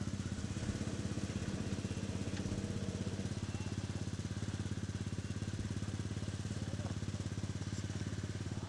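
Off-road 4x4's engine running steadily at low revs, an even, unchanging pulsing idle.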